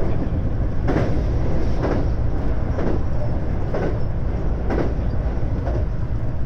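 JR West 521 series electric train running at speed, heard from inside the leading car: a steady low rumble of wheels on the track with a rail-joint clack about once a second.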